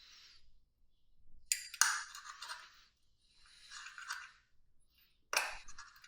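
Small metal tools and carburettor parts clinking, knocking and scraping in irregular handling, with four sharper knocks and stretches of scraping between them.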